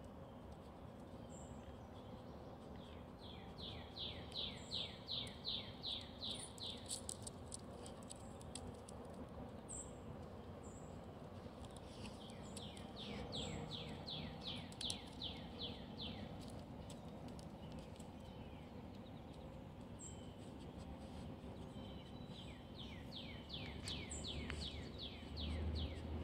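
A songbird singing three runs of quick, evenly repeated falling notes, each run a few seconds long, with short high chirps scattered between, over a steady low background hum.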